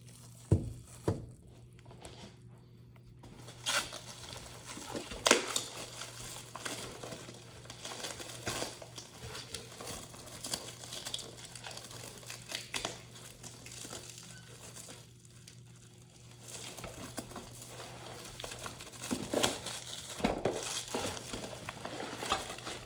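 Plastic wrapping and packing material crinkling and rustling in irregular bursts as ceiling fan parts are unwrapped and handled, with scattered sharp clicks and knocks.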